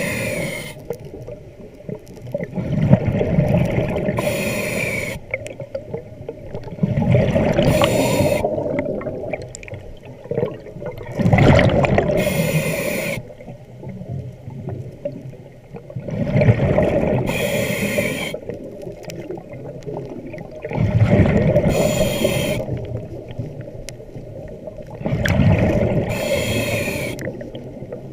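Scuba diver breathing underwater through a regulator, about six breaths: each is a rumbling rush of exhaled bubbles followed by a short hissing inhale with a falling whistle.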